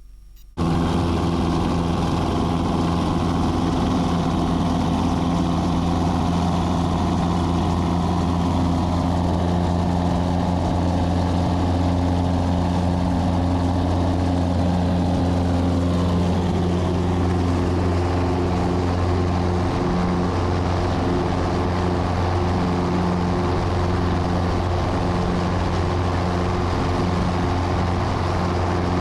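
Piper Cherokee's piston engine and propeller running steadily at takeoff power, heard from inside the cabin as a loud, even drone during the takeoff and climb-out.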